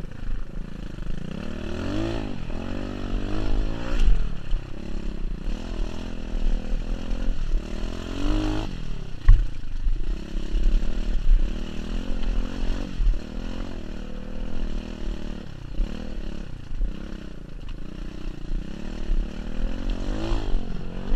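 Pit bike's small single-cylinder engine revving up and falling back over and over as it is ridden. A sharp thump comes about four seconds in, and a louder one about nine seconds in.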